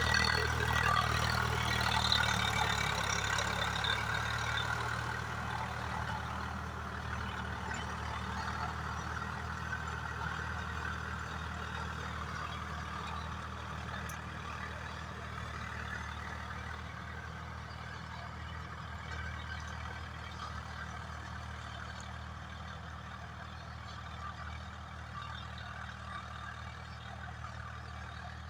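Swaraj 744FE tractor's diesel engine running steadily while working a rotavator, with a rushing, clattering noise above the engine hum that fades over the first few seconds. The whole sound slowly gets quieter.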